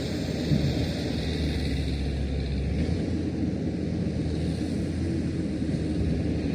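Diesel engine of heavy construction machinery running steadily, a low rumble with a few small knocks.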